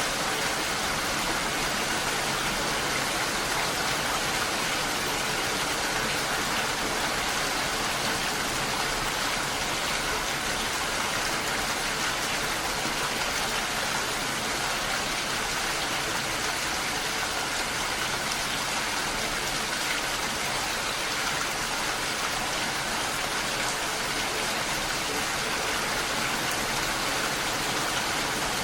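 Steady rain falling: an even hiss that holds without change or pause.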